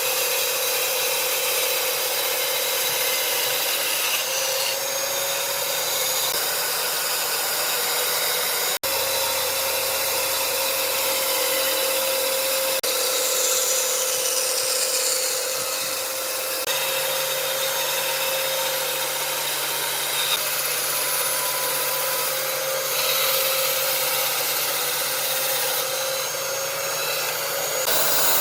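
Power tools working wood: a steady, loud machining noise with a whine, changing abruptly a few times as one tool pass gives way to another.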